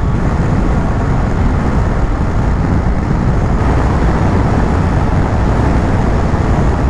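Motorcycle riding at speed: a steady rush of wind and road noise on the bike-mounted camera's microphone, with no change through the stretch.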